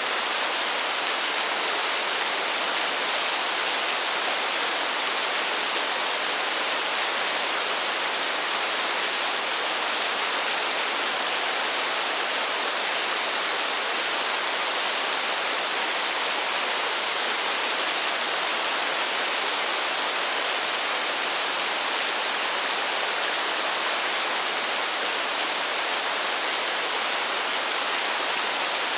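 Steady rain falling: an even, unbroken hiss with no single drops standing out and no change in strength.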